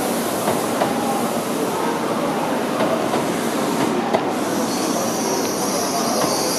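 N700-series Tokaido Shinkansen train rolling slowly over the station trackwork, a steady rolling noise with faint clicks from the wheels. A high-pitched wheel squeal sets in about four and a half seconds in.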